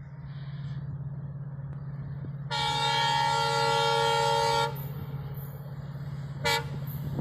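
WDP-4D diesel locomotive's EMD engine running with a steady low hum that slowly grows louder, with one long horn blast of about two seconds beginning around two and a half seconds in and a short toot near the end.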